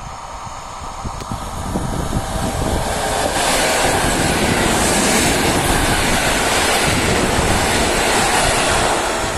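Electric multiple unit passing close by along the platform, its wheels rumbling on the rails. The noise grows as it approaches and becomes loud about three seconds in, as the cars come alongside.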